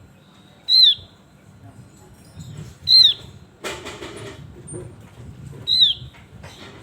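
Javan grey-throated white-eye (opior jawa) giving three loud, sharp, downslurred call notes, about two and a half seconds apart. A short rustling flutter comes just after the second call.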